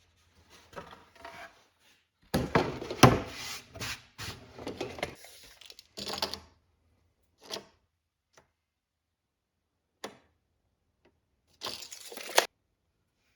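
Pieces of wood being handled: a run of knocks and scrapes starting about two seconds in and lasting about three seconds, then a few single knocks, and a short scrape near the end that finishes with a sharp knock.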